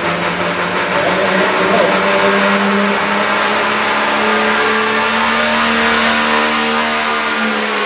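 Diesel pulling truck's engine at full throttle, running at steady high revs under load as it pulls the sled. The pitch rises a little in the first couple of seconds and then holds level.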